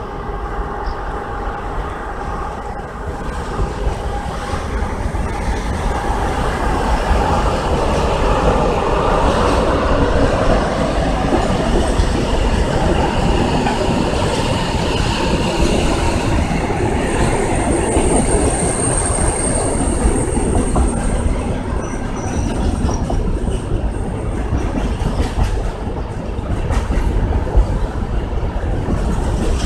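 Long freight train of container and tank wagons rolling past under electric haulage, growing louder over the first few seconds as it approaches. Its wheels clatter steadily over the rail joints, with a thin high wheel squeal for a few seconds past the middle.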